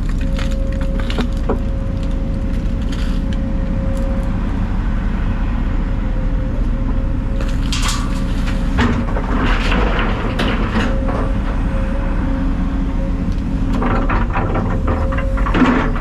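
A heavy diesel engine runs steadily with a thin constant whine over it. Debris cracks and crunches in bursts from about eight seconds in and again near the end.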